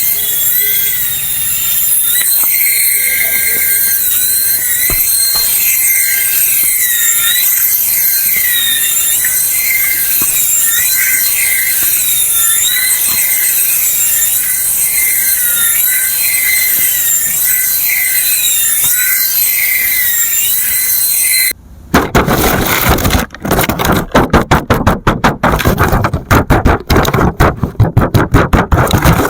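Toy RC helicopter's small electric motors giving a high-pitched whine that rises and falls over and over as the throttle changes. About three-quarters of the way through, the whine cuts off suddenly and loud, rapid clattering pulses take over.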